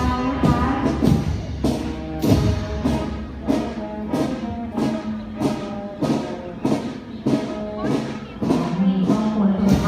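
School marching band playing: drum strokes keep a steady beat of a little under two a second under a sustained wind-instrument melody.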